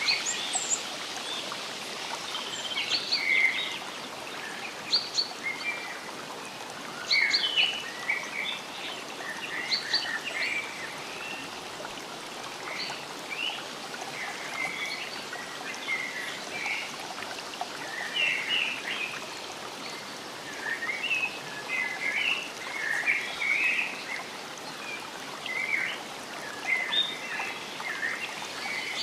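Forest ambience: many small birds chirping and calling in short, scattered notes over a steady background rush of flowing water.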